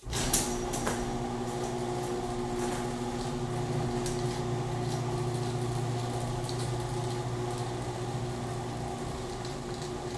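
Electric garage door opener running as it raises the garage door: a steady motor hum that starts suddenly and holds even, with light rattling from the door's travel.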